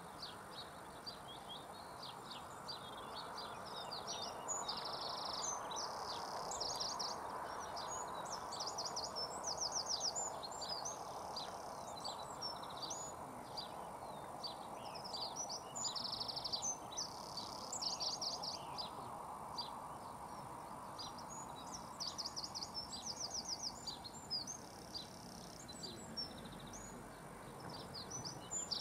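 Small birds chirping and trilling in quick irregular bursts over a steady outdoor background noise that swells and fades through the middle.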